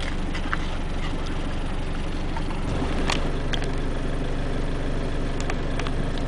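Car engine running, heard from inside the cabin as a steady low hum, with a few light clicks.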